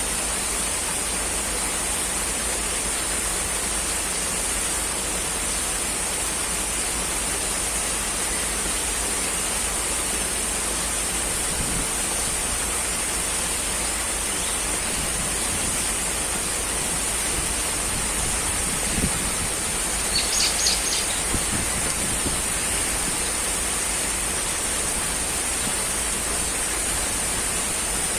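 Steady rushing noise at an even level, with a constant high hiss above it. A short run of high chirps comes about twenty seconds in.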